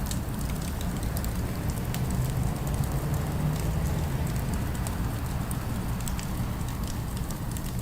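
Fire crackling, with scattered small pops over a steady low rumble of city ambience.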